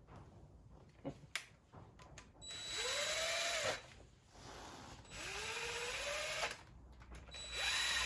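Power drill driving bolts down, in three short runs, each one winding up in pitch. The bolts are being snugged up. A couple of light clicks come before the first run.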